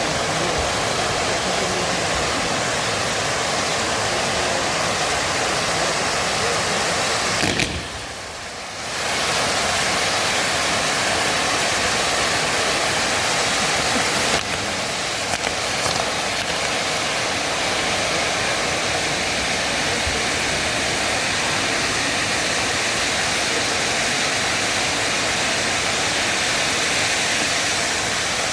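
Fireworks going off in a dense, steady hiss and crackle, with a brief lull about eight seconds in.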